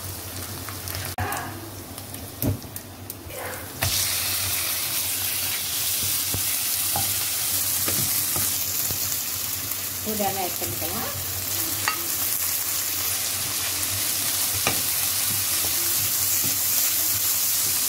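Chicken pieces frying in hot oil in a nonstick wok, stirred and scraped with a wooden spatula. The sizzle jumps suddenly louder about four seconds in, as the raw chicken goes into the hot pan, then stays steady with scattered spatula scrapes.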